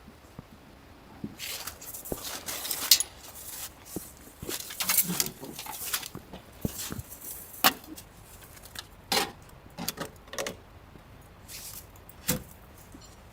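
Irregular clinks, knocks and rustles of gear being handled, some sharp and loud, others soft, with short pauses between them.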